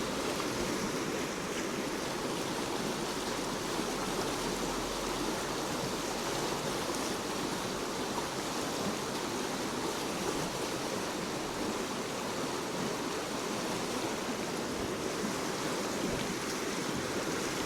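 Stream water running steadily over rocks, a constant rushing wash.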